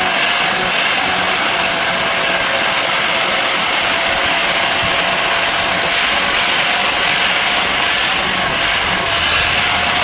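Power grinder running steadily against steel: a continuous loud grinding hiss with a faint steady whine underneath.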